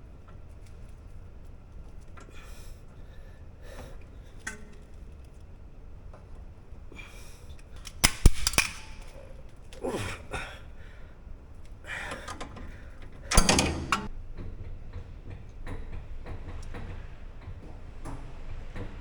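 Metal clicks, clinks and rattles of hand tools and brake hardware at a car's rear disc brake caliper as the pads, clips and slide pin are secured. Two sharp metallic knocks stand out, about eight seconds in and again about five seconds later.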